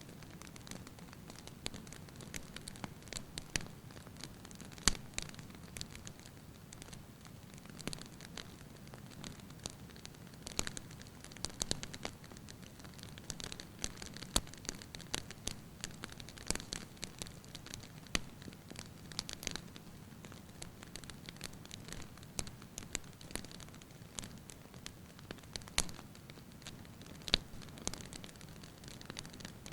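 Firewood burning in a fireplace, with light, irregular crackles and pops over a low steady rumble of the flames. The sharpest pop comes about five seconds in.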